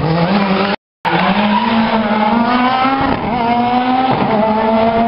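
Rally car engine at high revs, its pitch climbing steadily as it accelerates and dropping back at a gear change about three seconds in. The sound cuts out completely for a moment just under a second in.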